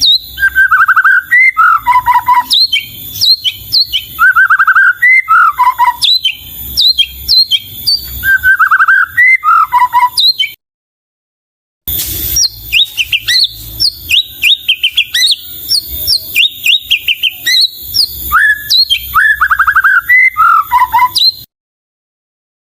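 White-rumped shama (murai batu) singing loudly and continuously. Its varied phrases of rich warbled notes are mixed with rapid downward-sweeping whistles, and the phrases repeat again and again. The song cuts to dead silence for about a second near the middle, and again near the end.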